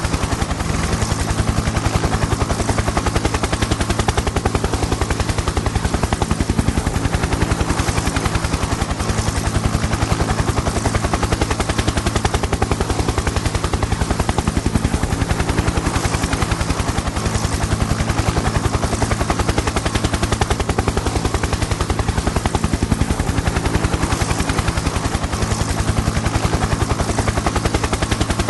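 Helicopter in flight: rapid, even rotor-blade chop over a steady low engine drone.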